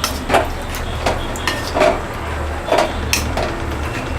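A spoon stirring chicken curry in a pan, knocking and scraping against the pan's sides and bottom about twice a second in an uneven rhythm, some strokes giving a short metallic ring.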